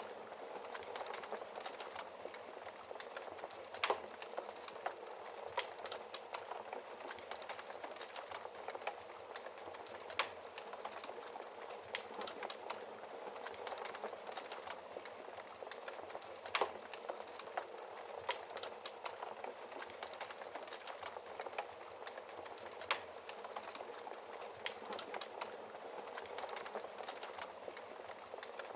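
Fire burning in a fireplace, crackling: a steady hiss of flames with frequent small pops and a few louder snaps.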